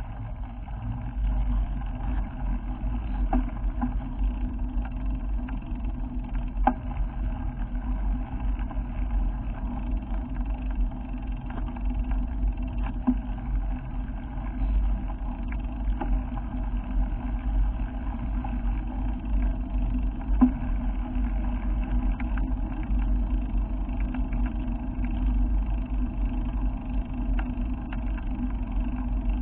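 Motor vehicle on the move: a steady low engine and road rumble that holds even throughout, with a few faint knocks and rattles.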